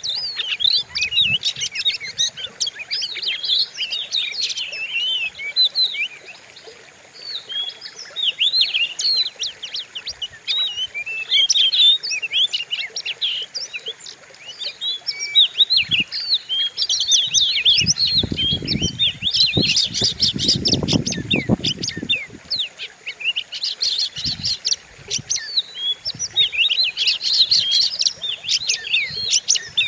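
Oriental magpie-robin (kacer) singing hard: a dense, unbroken run of fast, sharp chirps and whistled sweeps. A low rumble sits under the song for a few seconds in the middle.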